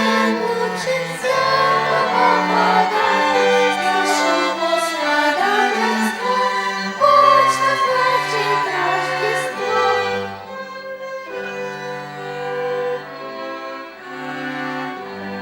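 A violin ensemble playing a Christmas song. About ten seconds in, the playing drops to softer, longer held chords.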